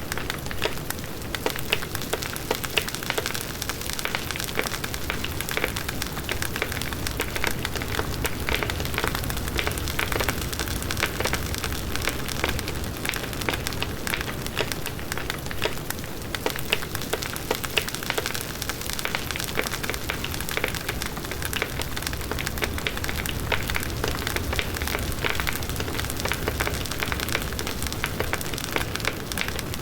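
A large wood bonfire burning, with dense crackling and popping of the burning wood over a steady low rush of flames.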